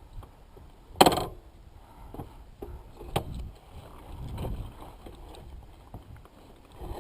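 Knocks and scuffs of a fallen dirt bike being hauled upright on loose dirt. There is a sharp clack about a second in, another near three seconds, and scraping in between over a low rumble.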